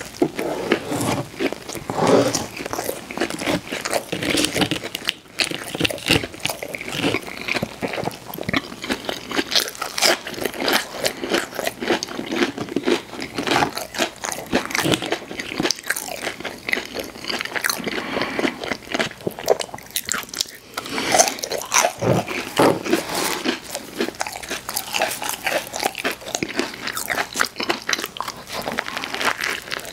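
Close-miked eating: crunchy fried fast food being bitten and chewed, with a dense, irregular run of crisp crunches and crackles.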